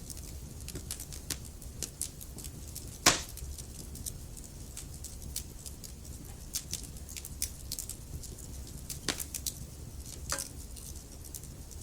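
Wood fire burning in a fireplace: a low steady rumble of flames under constant crackling of burning logs, with a sharp loud pop about three seconds in and two more pops near the end.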